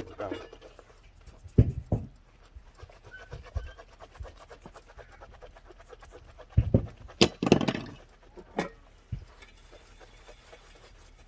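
A few scattered knocks and thumps, with a brief rustling scrape about seven and a half seconds in.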